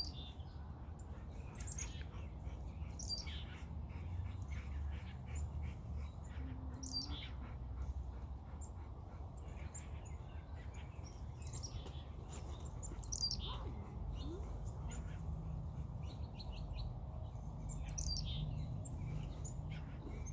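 Songbirds calling in the trees: short, sharp chirps that fall in pitch, scattered irregularly every second or two over a low steady rumble.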